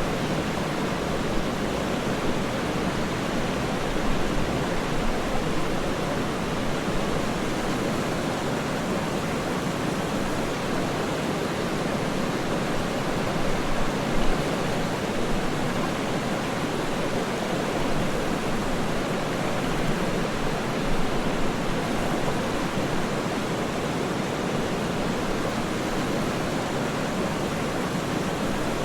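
Waterfall rushing in a steady, even roar of falling water, deep and unbroken throughout.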